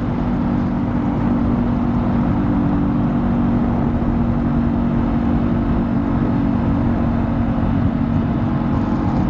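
Motorcycle engine running at steady revs while riding along, with wind and road rumble on a helmet-mounted camera's microphone; the engine tone holds level with no change in throttle.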